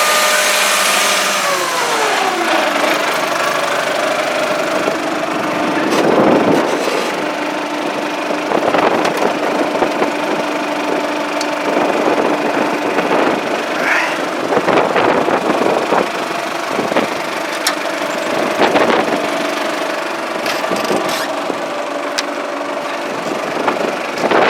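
1997 John Deere 5500 tractor's diesel engine running. Its revs fall to a steady idle about two seconds in, with scattered clicks and clanks over it.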